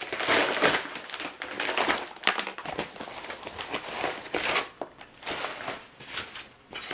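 Packing material being handled and crumpled by hand as a small parts package is unwrapped, in irregular noisy bursts, loudest in the first second and again about four and a half seconds in.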